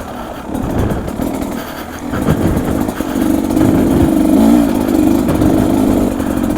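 Beta 250 RR two-stroke single-cylinder dirt bike engine running under the rider on a trail, its revs swelling about two seconds in and holding there.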